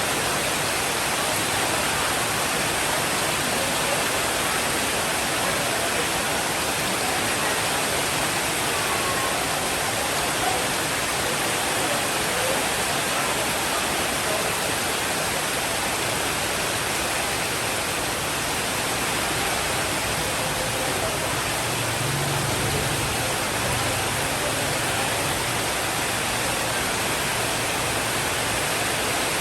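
Steady rainfall, an even hiss, with a faint low rumble of distant thunder about three-quarters of the way through.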